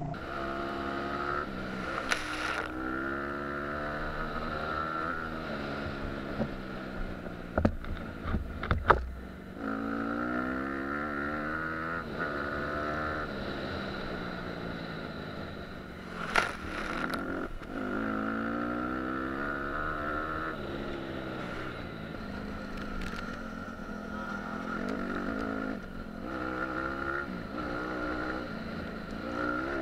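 Dirt bike engine revving, its pitch climbing through the gears again and again. There are a few sharp knocks about eight seconds in and again around sixteen seconds.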